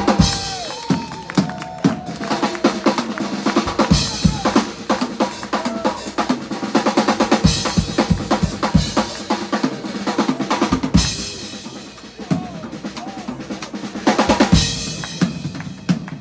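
Live drum kit playing a busy solo: rapid bass-drum and snare strokes throughout, with cymbal washes swelling in about four, eight and fifteen seconds in.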